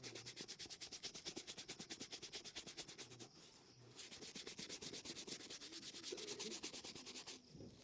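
A shoe being buffed by hand with quick back-and-forth rubbing strokes, about five a second, in two runs broken by a short pause about three seconds in.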